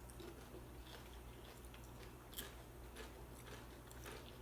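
Faint chewing of chips, with a few soft crunches scattered through, over a steady low hum.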